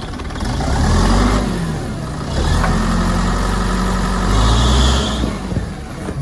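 A vehicle engine running under load and revving up and down, loudest about a second in and again near the end.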